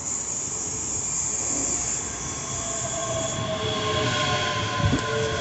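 ScotRail Class 385 electric multiple unit running into the platform and slowing, with a high steady hiss at first. After about three and a half seconds several steady squealing tones set in as it brakes, and there is a single knock near the end.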